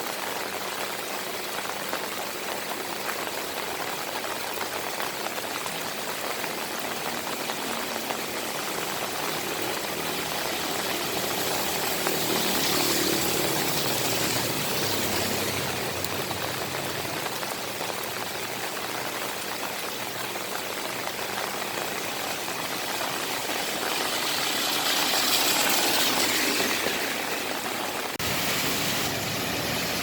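Steady rain falling, with two longer swells of louder hiss about halfway through and again near the end as vehicles pass on the wet street.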